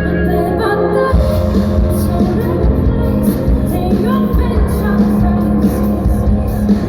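Rock band playing live, loud, with singing; drums and the full band come in about a second in after a quieter guitar passage.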